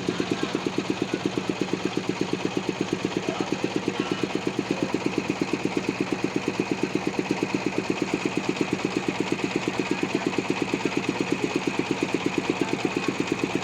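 Sawmill's engine running steadily at low speed with an even, fast chugging beat.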